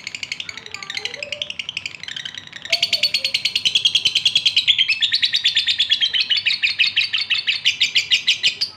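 Male lovebird in breeding condition calling to a female: a fast, unbroken run of high, shrill chirps, louder from about three seconds in.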